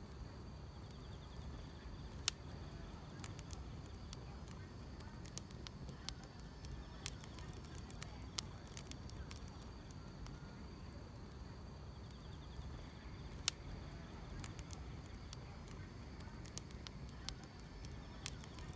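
Wood fire crackling, with scattered sharp pops over a steady low rumble, and a faint steady high trill of grass insects behind it.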